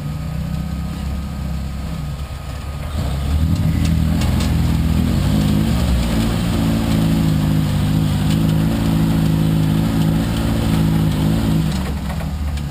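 Off-road 4x4's engine idling, then revving up about three seconds in and holding under load as the rig crawls up over rocks, dropping back to idle near the end.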